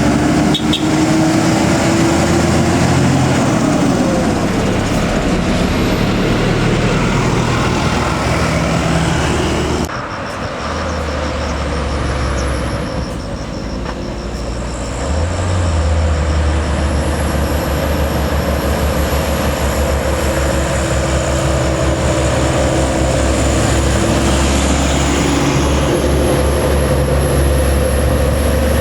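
Heavy diesel trucks climbing a steep grade, their engines running under load. It is quieter for a few seconds about ten seconds in, then the engine sound swells again as another truck comes up, with a high whine over it.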